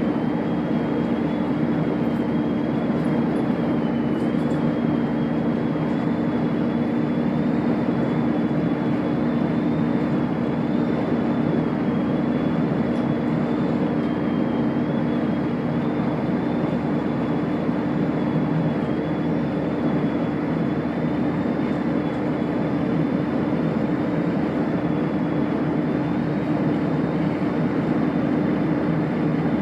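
Chiltern Railways diesel train running along the line: a steady hum with a thin, slightly wavering high whine above it.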